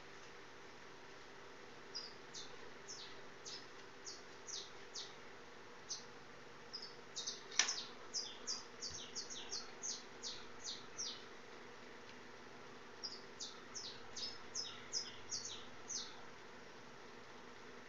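A small bird chirping in three bouts of quick, high, downward-sliding notes over a faint steady hum. One sharp click sounds about seven and a half seconds in.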